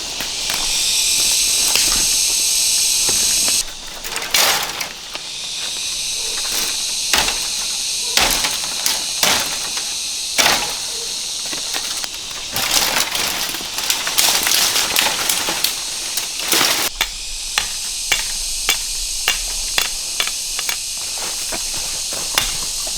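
A steady, high insect chorus with irregular knocks, snaps and rustles of sticks and brush being handled while a trap is made. The chorus drops away sharply about four seconds in and comes back.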